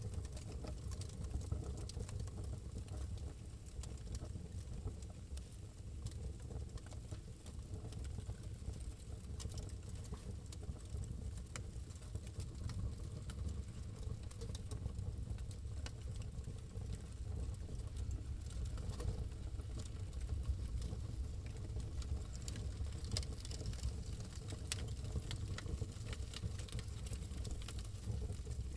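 Wood fire burning in a fireplace: a steady low rumble with scattered crackles and pops, which come thicker toward the end.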